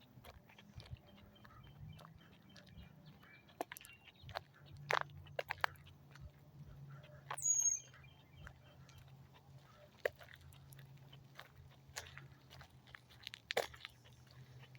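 An animal chewing: scattered crunches and clicks over a faint low hum, with one short, high, falling chirp about halfway through.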